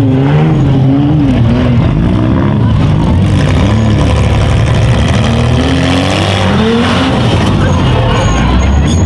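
Several small-car engines revving up and down at once, loud and continuous, as the stripped compact cars of a demolition derby heat drive and ram each other.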